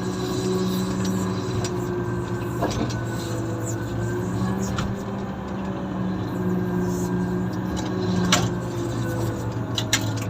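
Komatsu motor grader's diesel engine running steadily, with a few sharp clicks and knocks scattered through.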